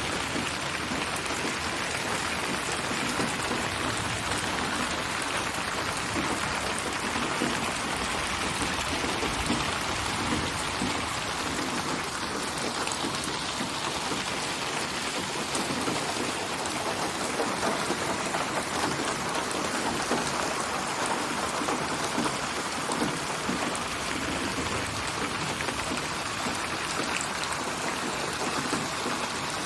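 Steady, even rainfall pattering on surfaces, a synthesized spatial rain ambience made from many layered rain recordings.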